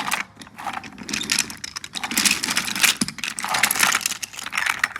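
Wooden toy train set clattering: a rapid, uneven run of clicks, knocks and rattles as toy engines and trucks roll and tumble over wooden track.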